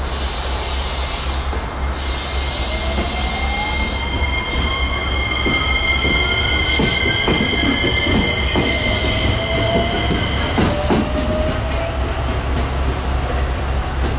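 Electric train running along the line with a steady low rumble. Over several seconds a whine rises in pitch, high squealing tones hold through the middle, and a run of wheel clicks over rail joints comes in the middle.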